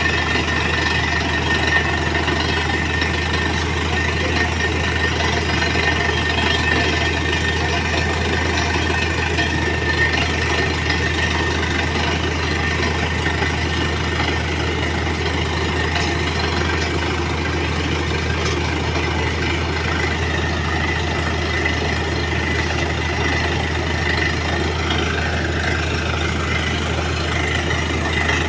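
Truck-mounted borewell drilling rig running steadily: a deep, even engine drone with a broad hiss over it and no change in pace.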